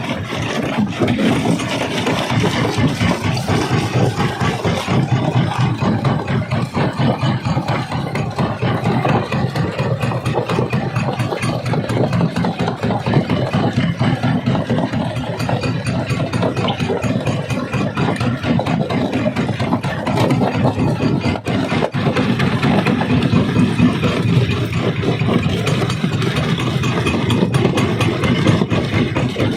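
Quarry rock crusher running steadily: a continuous heavy machine drone with dense, irregular rattling of stone being crushed.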